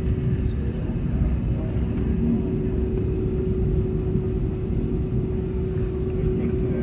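Cabin noise inside an Airbus A320neo after landing: a steady low rumble from its engines and airframe, with one steady hum running through it.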